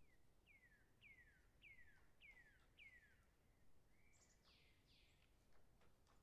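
Faint bird calling: a run of six falling whistles, a bit under two a second, then a brief higher-pitched phrase about four seconds in.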